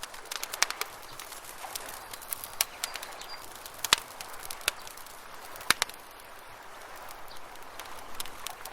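Campfire crackling: irregular sharp pops and snaps of burning wood, a few of them loud, over a soft steady hiss.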